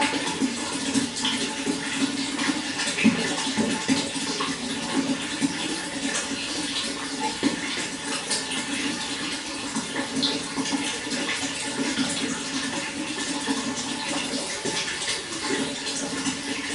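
Running water flowing steadily, with a constant rushing noise flecked with small splashes and gurgles.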